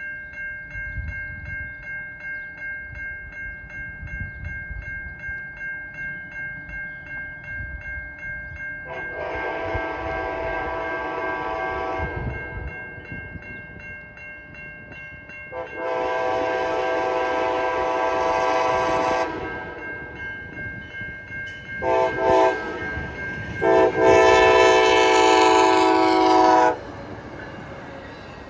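Amtrak locomotive's multi-tone air horn sounding the grade-crossing pattern: two long blasts, a short one, then a final long blast that is the loudest. Underneath, a crossing-signal bell rings in a steady pulsing rhythm over the rumble of the approaching train.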